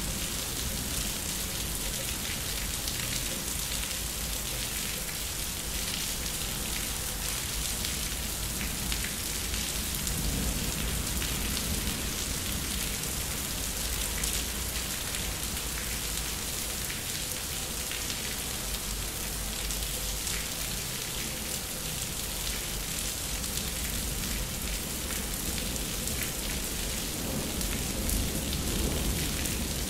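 Steady rain falling on a concrete backyard, a constant hiss with scattered drop impacts. Low thunder rumbles swell under it about ten seconds in and again near the end.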